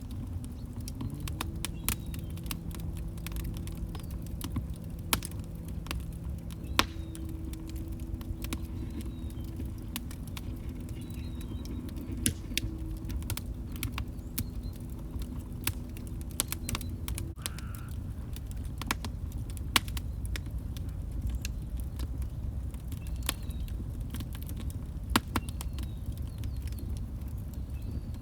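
Log fire crackling in a fireplace: irregular sharp pops and snaps over a steady low rumble of burning wood. A faint steady low tone runs under it from about a second in and stops suddenly about two-thirds of the way through.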